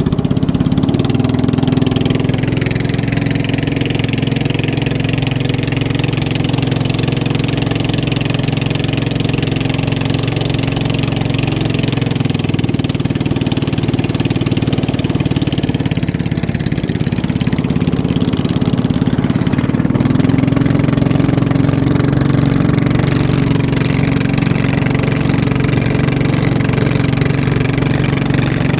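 Boat engine running steadily, a constant low engine drone that holds its pitch, with a slight swell about two-thirds of the way through.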